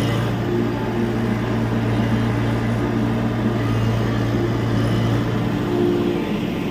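Diesel engine of a Tata Hitachi EX70 Super Plus excavator running steadily under work.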